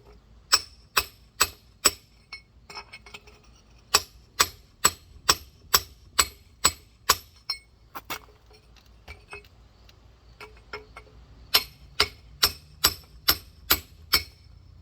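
Rock hammer striking a large geode in runs of sharp, ringing blows about two a second, with short pauses and lighter taps in between, as the geode is worked toward cracking open.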